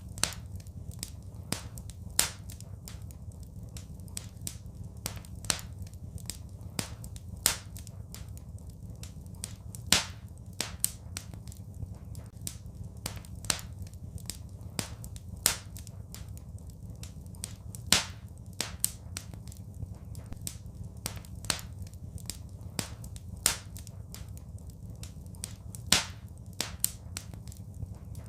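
Wood fire crackling in a fireplace: irregular sharp pops and snaps, several of them loud, over a steady low rumble.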